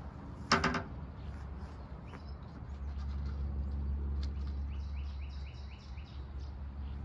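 Birds calling at the water's edge: one short, loud call about half a second in, then a quick run of about six short rising chirps near the end, over a steady low rumble.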